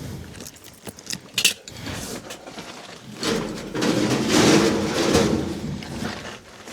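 Sheet-metal ductwork being handled: a few sharp metallic knocks and clicks, then a longer scraping, rattling rustle of metal for a few seconds.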